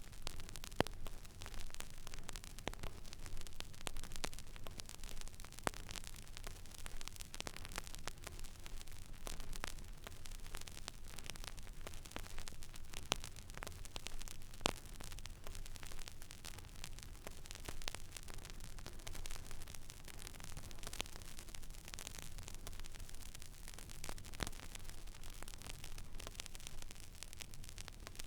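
Stylus riding an empty vinyl record groove: steady surface hiss with a low hum, broken by frequent irregular crackles and pops, a few of them louder.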